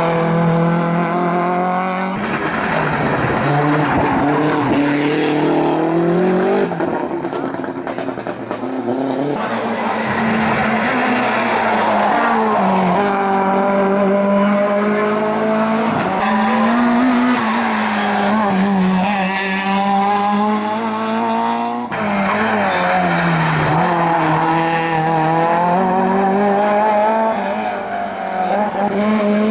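Competition race car engines at full throttle, revving up and dropping back again and again as they shift gears. The audio is several short clips cut together, one car after another.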